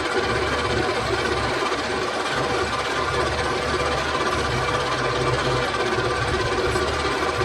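Workshop machinery running steadily, a constant mechanical whir with a steady hum over dense grinding noise.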